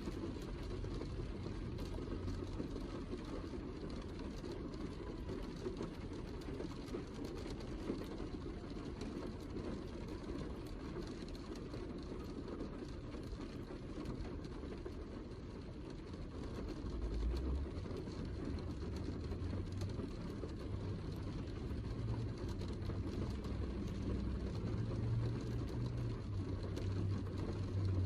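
Heavy rain, a steady rushing hiss with a low rumble underneath that grows stronger after about seventeen seconds.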